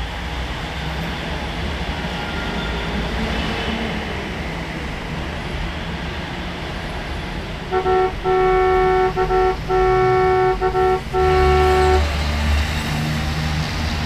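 Steady vehicle engine rumble, then about eight seconds in a vehicle horn honks in a quick string of toots of uneven length for about four seconds before the rumble carries on alone.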